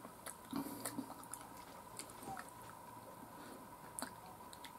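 A person quietly chewing chicken tails, with a few soft wet mouth clicks and smacks. A faint steady tone runs underneath.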